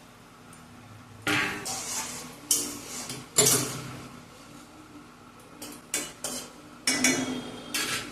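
Metal cooking utensil clattering and scraping against a cooking pot in about six short bursts.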